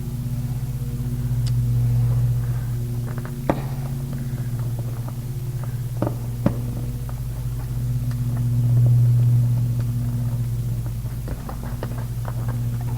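Steady low machine hum that slowly swells and fades, with a few sharp clicks of small parts and tools being handled, two of them close together about six seconds in.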